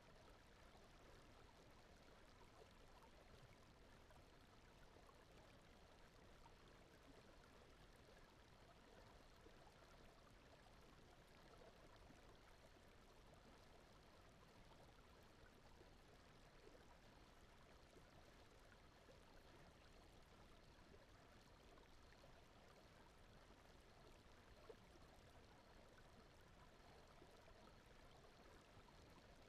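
Near silence: a faint, steady rushing noise bed that does not change.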